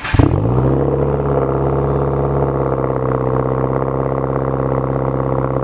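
2017 Subaru WRX's turbocharged flat-four through a Tomei Expreme Ti cat-back exhaust, starting up with a brief rev flare. It settles within about half a second into a steady idle.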